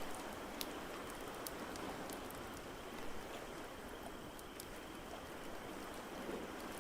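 Crackling wood fire, with irregular sharp pops and snaps, over a steady wash of ocean-wave noise.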